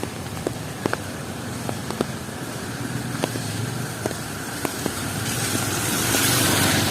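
Rainy street traffic: a vehicle engine running low and steady, with scattered sharp ticks of dripping water at irregular times. Near the end a hiss swells up, as of tyres on a wet road passing close.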